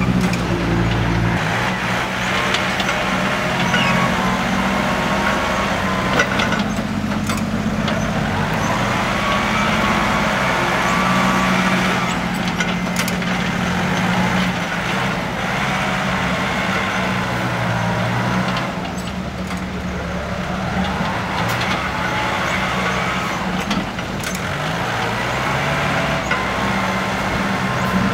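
Six-wheel dump truck's engine running steadily, with a hiss that swells and fades a few times as vehicles pass.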